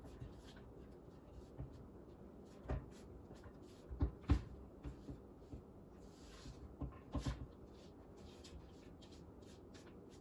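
Scattered knocks and light clatter of kitchen bowls, containers and a utensil as chopped vegetables are tipped into a mixing bowl, with two sharp knocks about four seconds in and a cluster of them around seven seconds.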